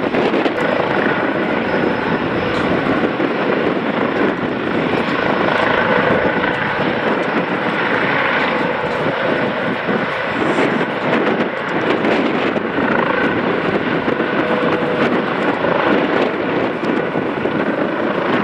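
Eurocopter EC135 police helicopter running at lift-off power, its turbines and rotors making a loud, steady noise with a few faint steady tones in it.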